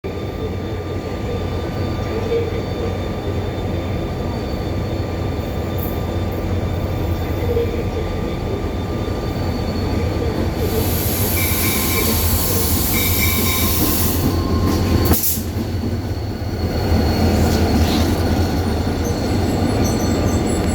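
Namdo Ocean Tourism Train running on the rails: a steady low rumble with wheel noise, a brief hiss about ten seconds in, and two short high tones shortly after.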